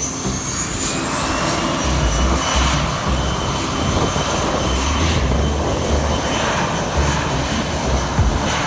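Jet aircraft engines at takeoff power: a high whine that rises and levels off about a second in, over a steady low rumble.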